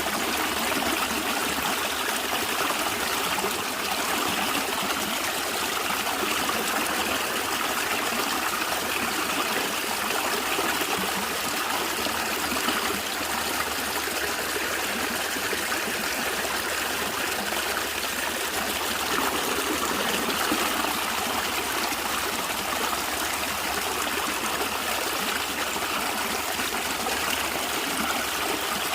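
A stream of water gurgling and trickling steadily.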